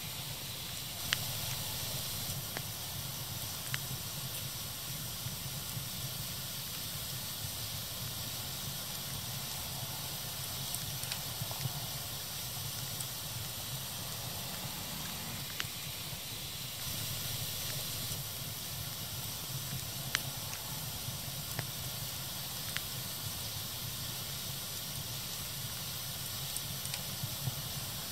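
Fire crackling: a steady hissing with scattered sharp pops, a few seconds apart and irregular, the loudest about a second in and about twenty seconds in.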